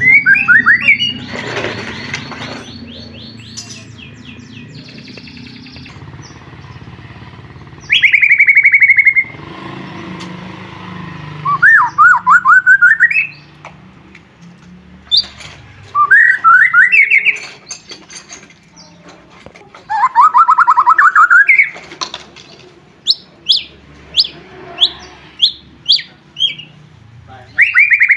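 White-rumped shama singing: loud phrases of rapidly repeated whistled notes, each about a second long and separated by pauses of a few seconds, then a quick run of short, sharp notes near the end.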